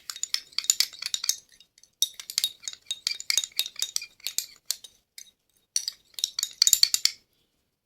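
A spoon stirring and clinking against a small dish, mixing crushed aspirin powder with white vinegar. It comes as three runs of quick ticks with short pauses between them.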